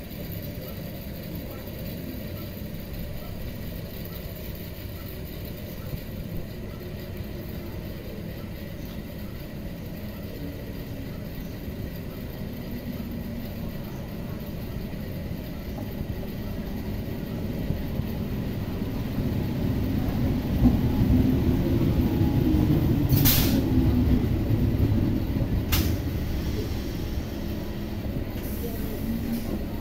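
Electric multiple unit (EMU) suburban train approaching and running past along a station platform. A low rumble builds through the second half and is loudest about two-thirds of the way in as the coaches pass, with a hum that rises and falls in pitch and two sharp clicks a few seconds apart.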